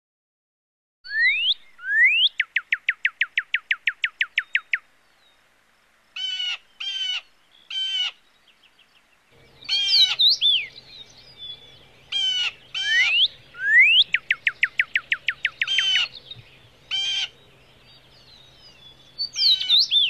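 Songbirds singing and calling: quick rising whistled notes, each followed by a fast trill, alternating with short buzzy calls. A faint low hum joins about halfway through.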